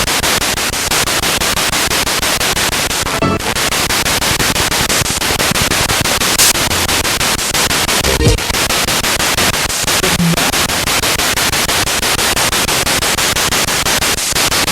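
Spirit box radio sweeping rapidly through stations: loud static chopped into a fast, even stutter, with brief snatches of broadcast sound breaking through a few times.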